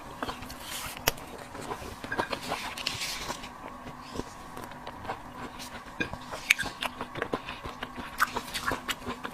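Close-up eating sounds: irregular chewing, crunching and small clicks, with a couple of brief wet slurping swishes, over a faint steady hum.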